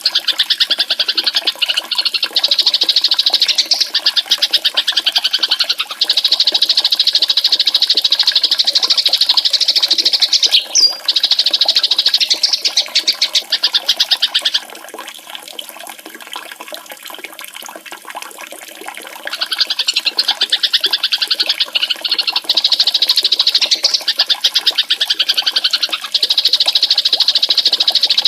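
A very fast, high-pitched trill used as a masteran call for training songbirds, held for several seconds at a time in long spells with short breaks, then falling silent for about five seconds in the middle before starting again.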